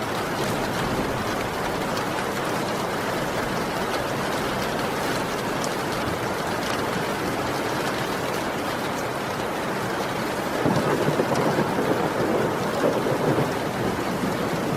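Heavy rain falling steadily, with a roll of thunder swelling in about ten seconds in and rumbling for a few seconds.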